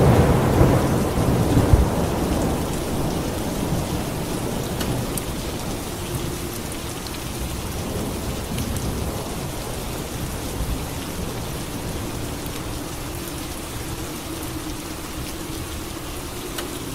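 A clap of thunder at the start that rumbles and fades away over several seconds, over steady falling rain.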